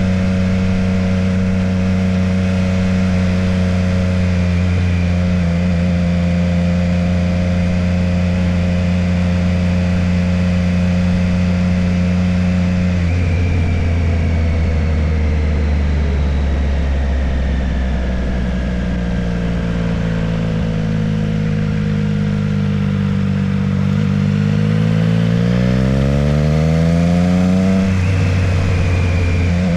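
Motorcycle engine running at a steady cruise with wind rushing past. Its pitch drops about halfway through, then climbs steadily as it accelerates and falls sharply at a gear change near the end.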